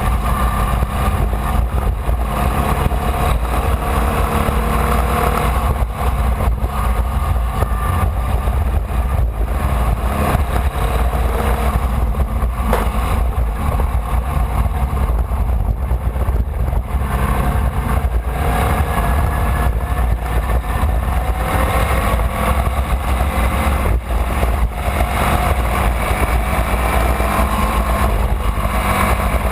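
Formula Vee's air-cooled Volkswagen flat-four engine running hard under race load, revs climbing and dropping through the gears, over a loud steady rumble.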